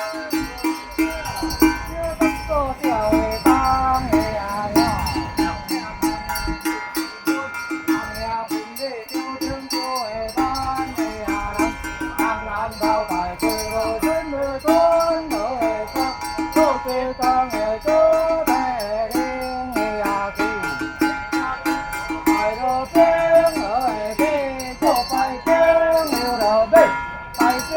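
Taiwanese temple ritual music: a high, wavering melody line over fast, continuous jingling and ringing of small bells.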